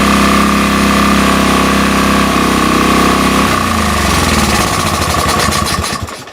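Sportsman GEN2000 portable generator's small engine running steadily with a high whine, then shut off about three and a half seconds in: its pitch falls and the firing slows to separate beats until it stops.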